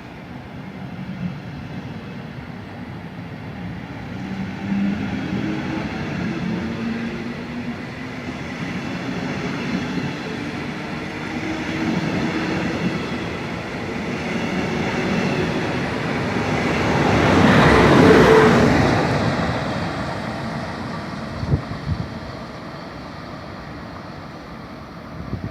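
A train running past on the rails, its noise building gradually and loudest about eighteen seconds in before fading away. A couple of sharp clicks come shortly after the peak.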